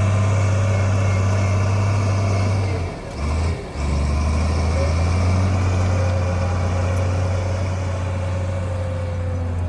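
Heavy earth-moving machine's diesel engine running steadily with a deep, low drone, dipping briefly and shifting in pitch about three seconds in.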